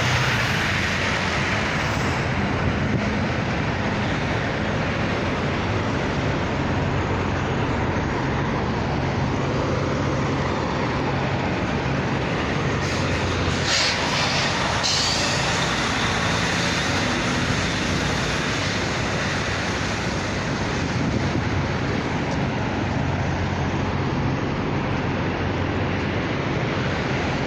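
Idling diesel truck engines, a steady low hum under an even outdoor traffic noise, with a brief clatter about halfway through.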